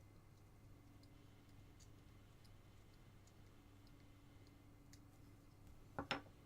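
Faint, scattered small clicks of a carving knife paring a basswood carving, over a steady low hum. About six seconds in comes a sharp double knock, much louder than the clicks.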